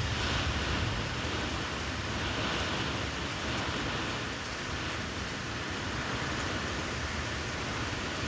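Steady rushing noise of hurricane wind and rain, a little stronger in the first second.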